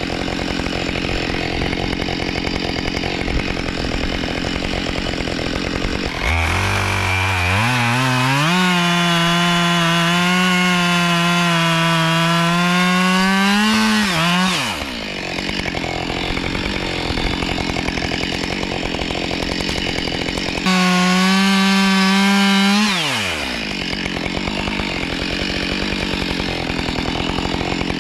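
Two-stroke chainsaw idling, then opened to full throttle to cut firewood, first for about eight seconds and again for about two and a half seconds near the end. Each time the revs fall back to idle.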